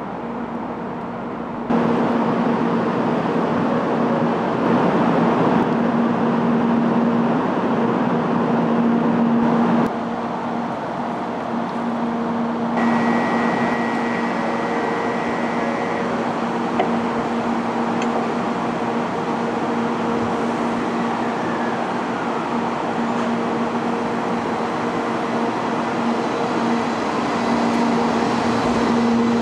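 JR West 700 Series 'Hikari Rail Star' shinkansen standing at the platform, its equipment giving a steady hum with a low tone. Partway through, a high steady tone sounds for about three seconds. Near the end the train starts to pull away.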